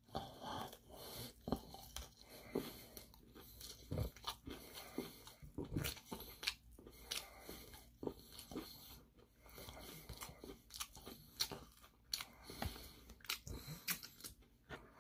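Close-up crunching and chewing of crispy Korean fried chicken, in many short irregular crackles.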